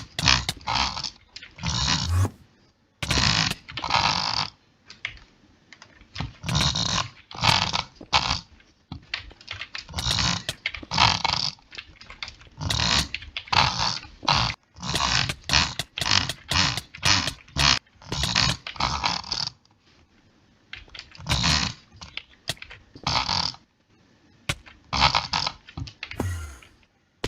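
A person making wordless clicking and throaty mouth noises: sharp clicks mixed with noisy, guttural spurts, coming in irregular bursts with short gaps and a longer pause about twenty seconds in.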